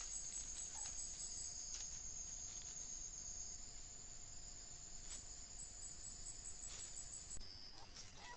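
Insects chirring in a steady high-pitched chorus with a fast pulsing edge. The chorus cuts off suddenly near the end, leaving a few faint short whistled notes.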